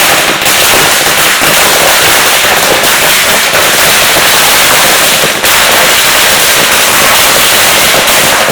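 Firecrackers going off in a dense, unbroken crackle of rapid sharp bangs, very loud.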